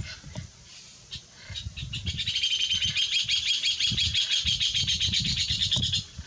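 A bird's fast, high rattling chatter, starting about two seconds in and running for some four seconds, over soft low thumps.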